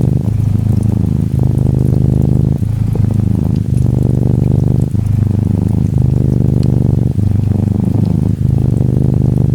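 Norwegian Forest Cat kitten purring close up, in a steady low rumble that pauses briefly about every second and a bit as it switches between breathing in and out. Faint rain patters over it.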